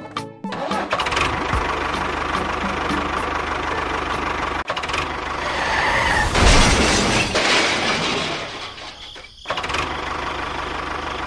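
An engine running steadily. It gets louder in the middle, cuts out briefly about nine seconds in, then runs on again.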